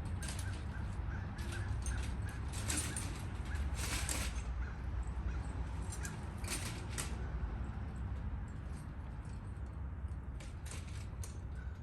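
Harsh bird calls repeated several times, loudest about three and four seconds in, over a steady low rumble.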